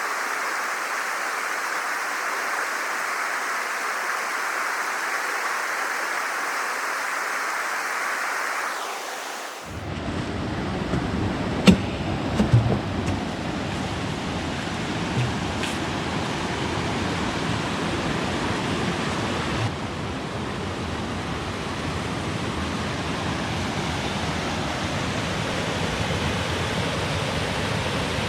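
Rushing water, a steady hiss that changes about a third of the way in to a fuller, deeper rush, with a few sharp clicks just after the change.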